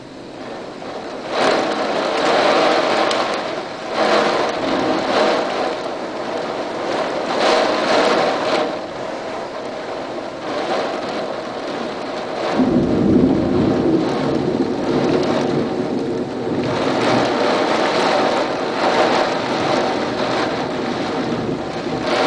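High wind of 60 mph and more blowing in gusts that swell and ease every few seconds. A heavier, deeper gust comes about halfway through.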